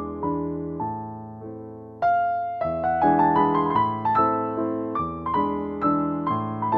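Background piano music: struck notes ringing and fading one after another, quieter at first, then louder and busier from about two seconds in.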